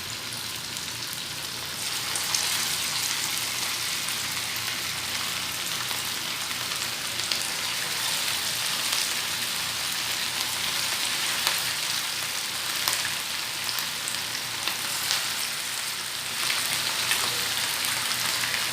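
Marinated, flour-coated chicken pieces frying in hot oil in a pan: a steady sizzle full of small crackles and pops. It gets louder about two seconds in and again near the end as more pieces go into the oil.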